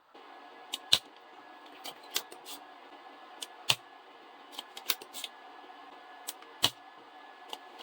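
Scattered small sharp clicks and snaps of plastic and metal tools as the Omron-made key switches of a Logitech G910 keyboard are worked off its circuit board, over a steady faint hum.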